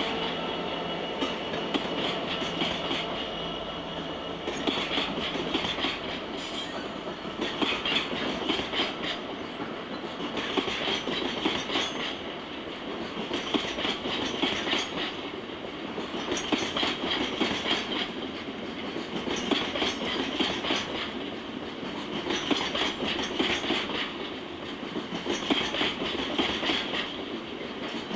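Freightliner coal hopper wagons rolling past at slow speed, their bogie wheels clattering over the rail joints. The clatter comes in groups about every three seconds as each wagon passes.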